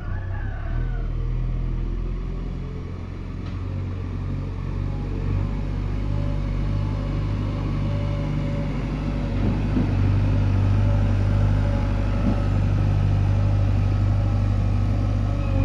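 Diesel engine of a JCB 3DX backhoe loader running steadily with a low drone, getting somewhat louder about halfway through.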